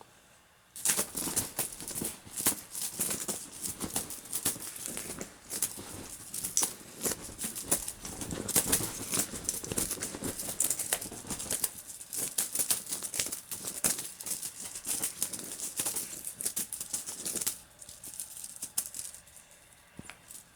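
Rapid rustling and rattling of a cat teaser toy being shaken and played with, mixed with a cat's short, snorting huffs through its nose as it is out of breath. It starts about a second in and dies down near the end.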